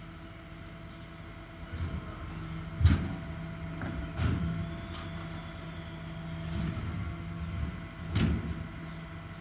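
Garbage truck engine running steadily, with several sharp knocks and bangs. The loudest comes about three seconds in, and others come near four and eight seconds.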